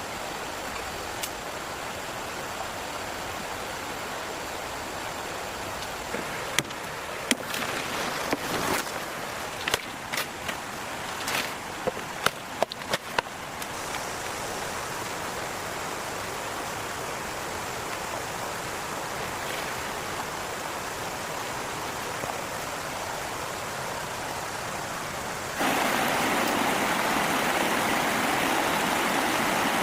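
Steady rush of running water, with a run of sharp knocks and clicks between about six and thirteen seconds in. Near the end the water noise jumps suddenly louder.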